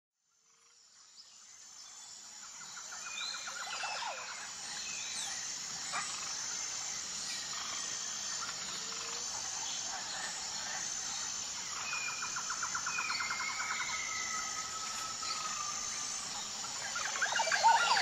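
Birds singing and calling over a quiet countryside background, with whistles and rapid trills, fading in over the first few seconds.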